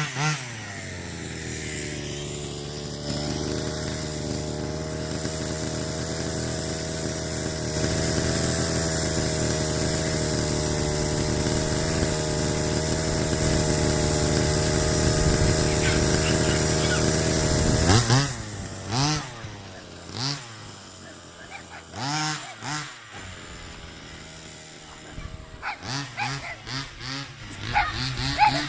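A 1/5-scale RC car's 45cc two-stroke engine, fitted with a side-pipe exhaust, drops from a rev, then runs at a steady high rev for about seventeen seconds. Then it falls back and is blipped, the revs rising and falling several times.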